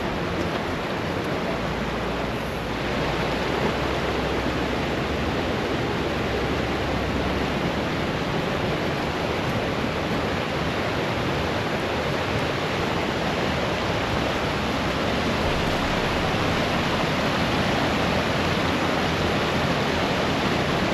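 Waterfall and creek: a steady, loud rush of falling water, growing a little louder about three seconds in.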